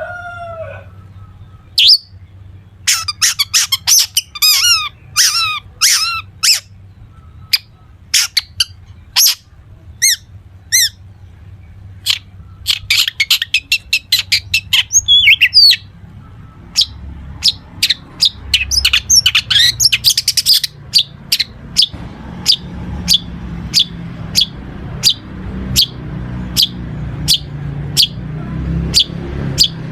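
Long-tailed shrike (cendet) singing a varied song of sharp calls and fast chattering phrases, filled with mimicked notes of other birds. In the last third it settles into a steady run of single sharp chirps, a little more than one a second.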